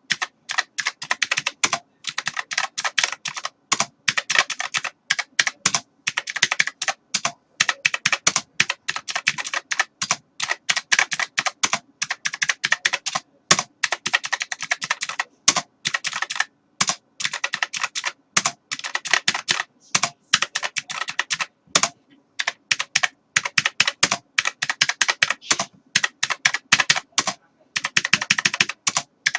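Computer keyboard being typed on: fast runs of key clicks in bursts of a few seconds, broken by short pauses.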